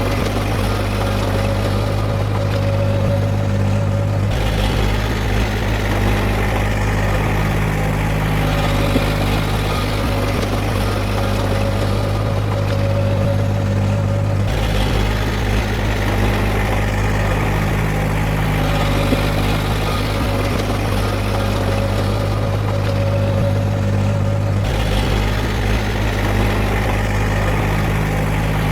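Heavy diesel engine of earthmoving machinery running steadily with a deep, even hum. Its tone shifts slightly about every ten seconds.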